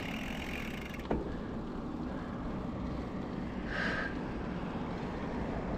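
Steady low rumble of road traffic, with a single sharp click about a second in.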